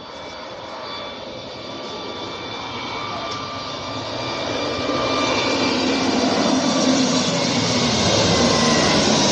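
Jet airliner on its landing approach, the engine rush with a few faint whining tones growing steadily louder as it nears.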